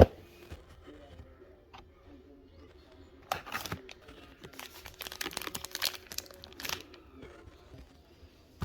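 Plastic snack wrapper of tangerine wafers being crinkled and torn open, in bursts of crackling about three seconds in and again from about four and a half to seven seconds.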